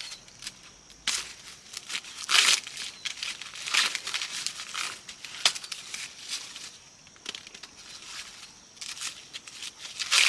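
Dry plant material being handled: irregular rustling, crinkling and tearing, with a few sharp snaps, the loudest about two and a half seconds in and near the end.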